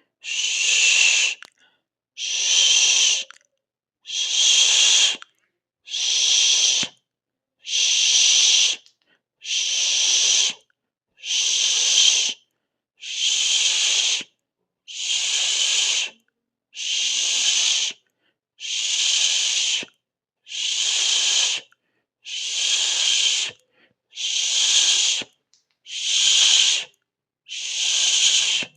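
A person's drawn-out 'sss' hiss, repeated about every two seconds, with complete silence between the hisses.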